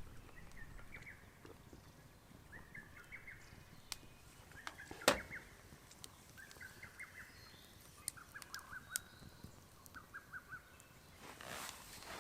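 Wild birds calling in woodland: short phrases of quick chirping notes repeated every second or two. A few sharp clicks cut through, the loudest about five seconds in, and a rustle starts near the end.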